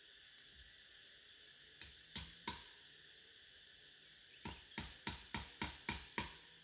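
Sharp knocks, three in a row about two seconds in, then seven more in quick succession, about three a second, over a steady high insect-like hum.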